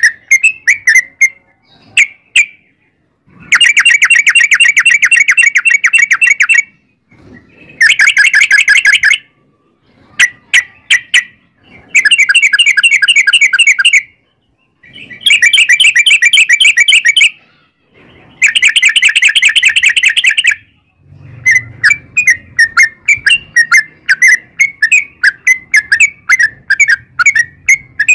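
Yellow-vented bulbul (trucukan) singing: loud choppy chirps broken by five long, very fast trills of one to three seconds each, the long rapid 'ropel' that keepers play to draw a reply from their own bird.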